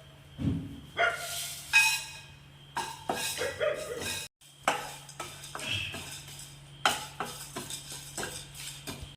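Kitchen utensils and dishes clattering and knocking irregularly, over a steady low hum.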